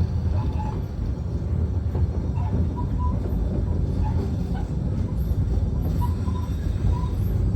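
Steady low rumble of a passenger train car rolling along, heard from on board, with a few short high chirps scattered through it.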